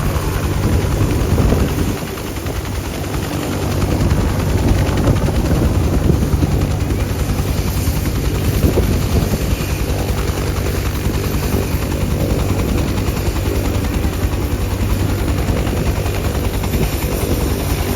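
UH-60 Black Hawk helicopter running, its rotor and twin turboshaft engines making a steady, continuous noise. The sound dips briefly about two seconds in and builds back up within a couple of seconds.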